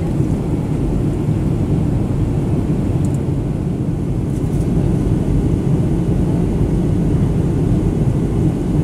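Boeing 737-800 cabin noise heard from a window seat: a steady low rumble of the engines and rushing air as the airliner descends towards landing. Two faint brief ticks sound about three and four and a half seconds in.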